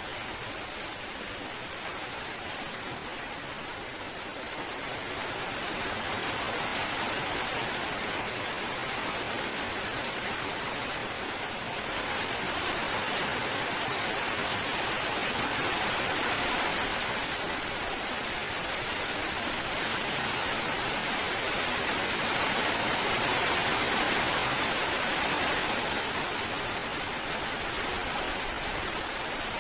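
Steady rainfall, a dense even hiss of drops that swells a little about five seconds in and stays heavier.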